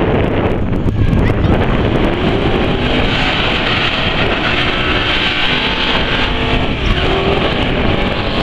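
A truck's V8 engine running, heard through heavy noise from wind on the microphone, with a faint engine tone that rises and falls through the middle of the clip.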